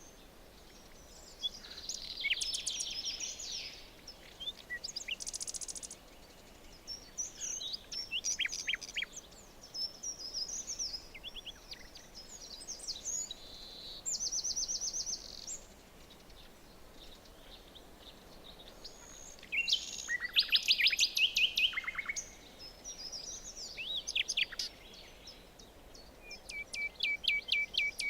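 Several songbirds singing in a forest, phrase after phrase of chirps and warbles from different birds, sometimes overlapping. The loudest bout comes about two-thirds of the way in, and a fast run of repeated notes ends the stretch, over a faint steady hiss.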